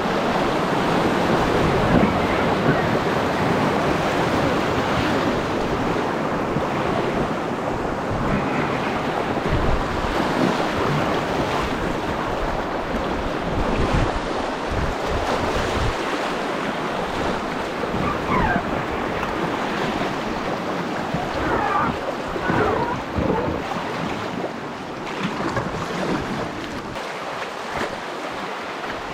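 Water of a shallow rainforest river rushing around a packraft, with wind buffeting the microphone; it eases a little toward the end.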